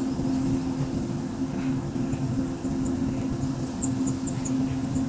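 A steady low hum holding a few fixed pitches, with brief, very high chirps now and then.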